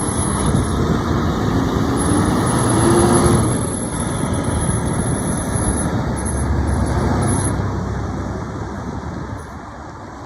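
Highway traffic: heavy trucks driving past with a rumble and tyre noise that swells twice, then fades away near the end.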